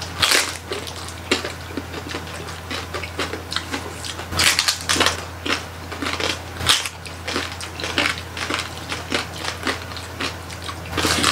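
Close-miked crunching and chewing of roast pig (lechon) with crispy crackling skin, many short, crisp crunches in irregular succession, a louder cluster of bites a little before the middle.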